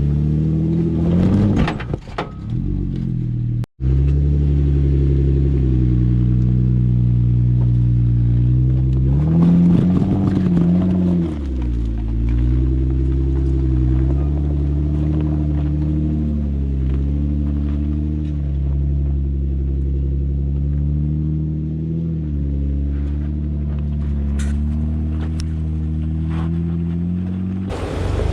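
Jeep engine running at low trail speed while crawling over rock, a steady low drone. It revs up briefly about ten seconds in, then settles back.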